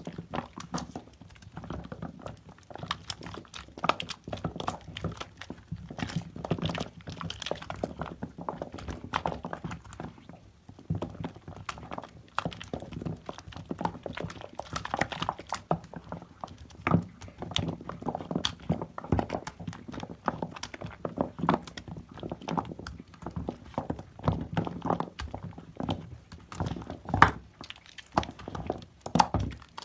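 Hands squeezing and working soaked, mushy soap and its foam, giving a close, irregular run of wet squelches and clicks.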